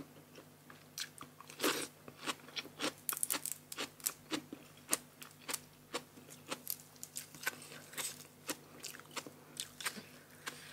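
Biting and chewing crunchy food close to the microphone: a quick, irregular run of crisp crunches and crackles.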